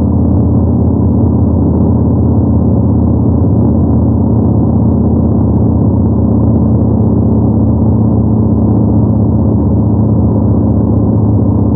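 Yamaha MT-01's big air-cooled 48-degree V-twin cruising at a steady speed: a constant low exhaust note, with no gear changes or revving.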